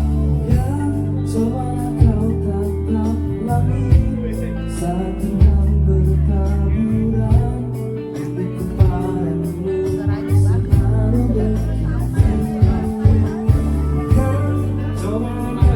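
Live band music with singing over a steady bass line and drum beat.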